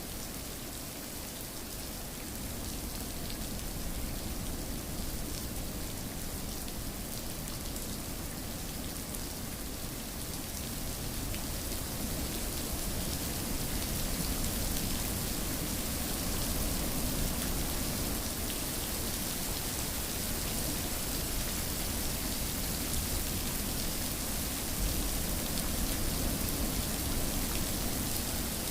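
Steady rain falling: an even hiss with a low rumble beneath and the fine patter of drops, growing slightly louder partway through.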